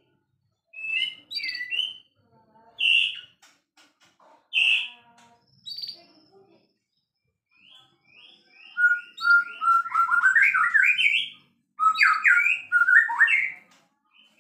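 White-rumped shama (murai batu) singing: a few short, separate whistled phrases, then, from about halfway in, a fast run of quickly repeated rising notes that is the loudest part of the song.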